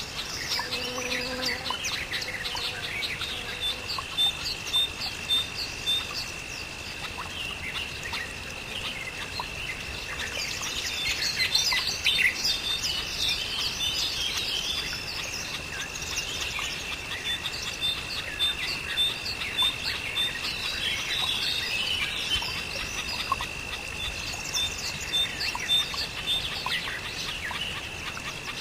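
Birds chirping and singing, many short calls and trills overlapping, over a steady high-pitched tone. A brief lower call sounds about a second in.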